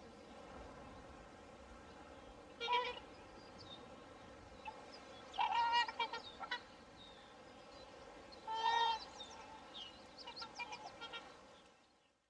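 Swans calling: single pitched calls a few seconds apart, then a quick run of shorter calls, over a steady faint background; the sound fades out just before the end.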